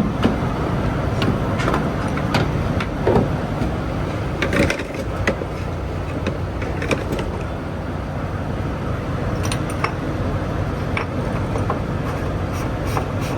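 Semi-truck diesel engine running steadily, with scattered clicks and knocks over it.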